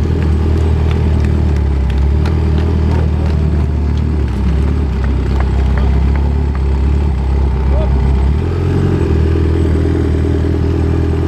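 Kawasaki Ninja H2R's supercharged 998 cc inline-four running steadily at low revs, heard from on the bike as it rolls slowly. Its note shifts slightly about eight seconds in.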